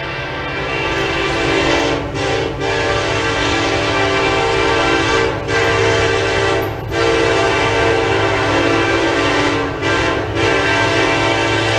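Freight locomotive's air horn sounding a series of long blasts with brief breaks between them, over the low hum of the diesel engine.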